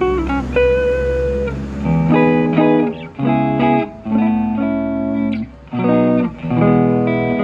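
Electric guitar played through a NUX Cerberus multi-effects pedal: a note held for about a second, then a run of chords with short breaks between them.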